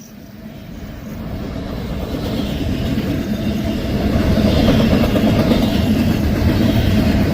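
Union Pacific intermodal freight train rolling past, a steady rumble of wheels and rail that grows louder over the first few seconds and then holds.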